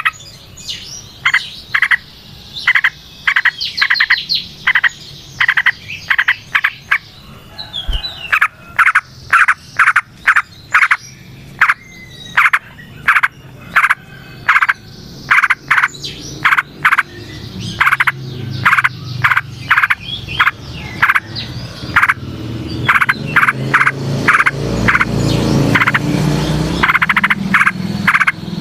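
Frogs croaking: short, sharp calls repeated several times a second in long runs, with a lower rumbling chorus building in the second half.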